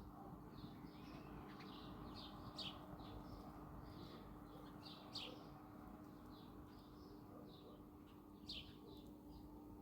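Birds chirping faintly: a busy run of short, high chirps, several a second, with a few sharper, louder chirps standing out. A steady low hum runs underneath.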